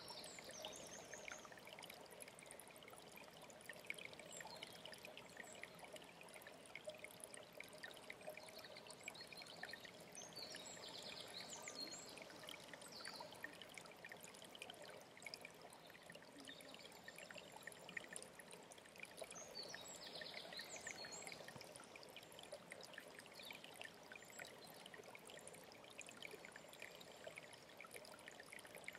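Faint mountain stream trickling and splashing steadily. A songbird sings two short high phrases over it, about ten seconds in and again about twenty seconds in.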